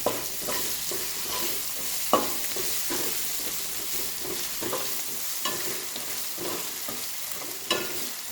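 Ginger, onion and curry leaves sizzling in oil in a pan while a spoon stirs and scrapes through them. The spoon knocks sharply against the pan twice, about two seconds in and near the end.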